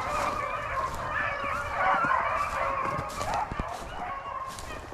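A pack of hunting dogs baying together as they run a rabbit's track, many overlapping voices at once.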